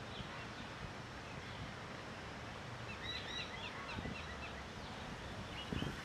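Outdoor background hiss with a quick run of short, high bird chirps about three seconds in, and a few more near the end.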